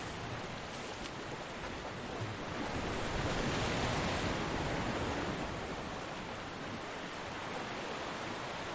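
Ocean surf: waves washing onto a beach in a steady rushing hiss. One wave swells to a louder rush a few seconds in, then eases off.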